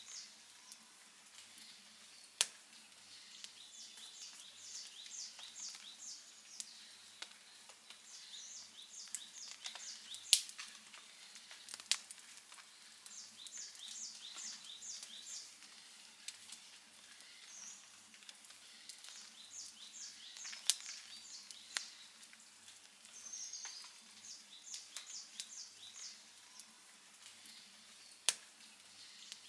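Outdoor campfire crackling, with a handful of sharp, loud pops over a faint hiss of the burning wood. High chirps repeat in quick short series throughout.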